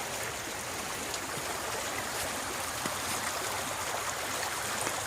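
Rain-swollen creek running high, a steady even noise of flowing water, with a few faint ticks.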